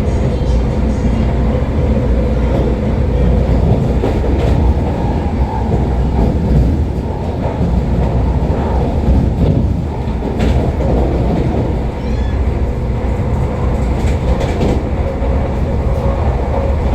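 Vande Bharat electric train running at speed, heard from inside the coach: a steady low rumble with a few sharp clicks from the track.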